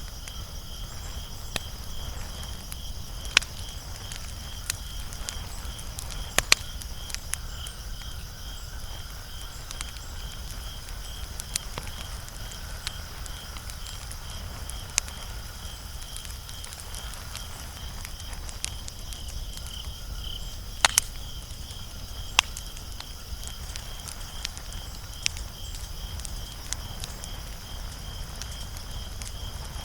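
Wood fire crackling: scattered sharp pops and snaps, a few louder than the rest, over a low steady rumble.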